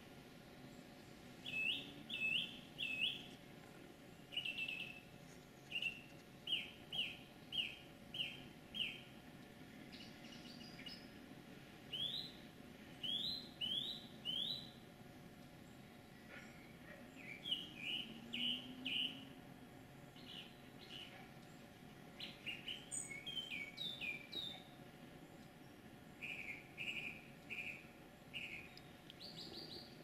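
A songbird singing in short phrases, each a clear note repeated three to six times in quick succession, with pauses of a second or two between phrases.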